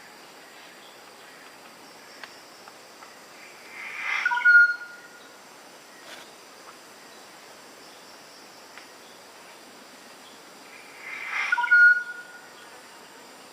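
Black magpie calling twice, about seven seconds apart: each call is a rasping build-up that ends in a short clear whistled note. A steady high insect hum runs underneath.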